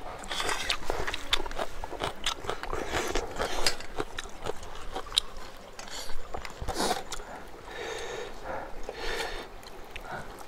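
Close eating sounds: biting and crunchy chewing of food, with many short clicks and crackles.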